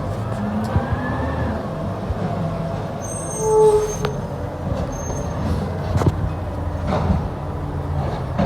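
Garbage truck's diesel engine running steadily, with a short rising whine near the start and a brief squeal a little over three seconds in. Two sharp knocks follow later.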